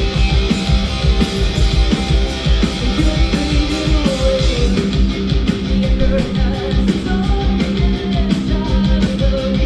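Live rock band music: electric guitar, bass and drums playing hard, as heard in an audience recording of a concert.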